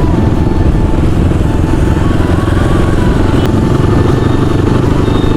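Motorcycle engine running steadily while riding, with a rapid, even firing pulse throughout. The bike is a CX250R dirt bike just back from an oil seal replacement.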